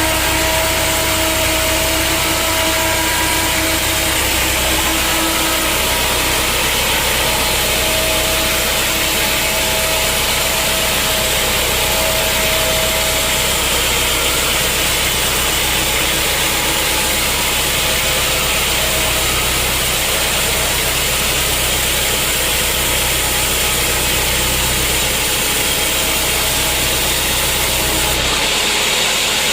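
Sawmill machinery running steadily: a continuous engine hum under the noise and held whine of a saw cutting wood. The low hum drops out abruptly near the end.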